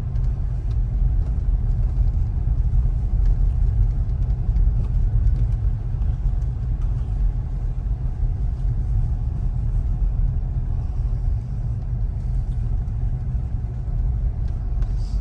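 Steady low road and tyre rumble heard inside the cabin of a Tesla Model Y electric car driving slowly on a snowy road; there is no engine note, only the tyres and road.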